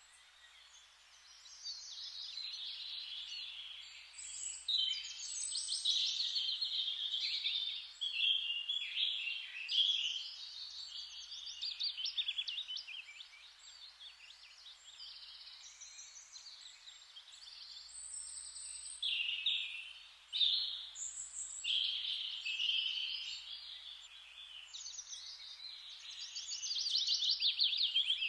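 Several songbirds singing over one another in a continuous chorus: quick, high, rapidly repeated phrases follow each other with only brief gaps, over a faint background hiss.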